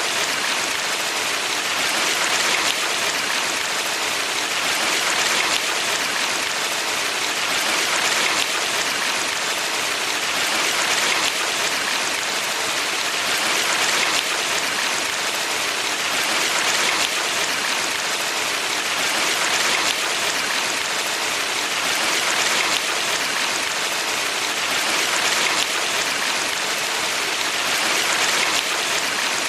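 Water of a valley stream rushing and splashing continuously, swelling gently every few seconds.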